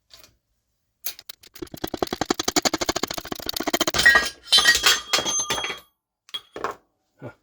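Rapid metal-on-metal impacts, about a dozen a second, driving an Eaton M62 supercharger's needle bearing out of its housing with a 1/2-inch extension set inside the bearing. After about four seconds come louder clanks and clinks with a ringing metallic note as the bearing comes loose, then a few scattered clicks.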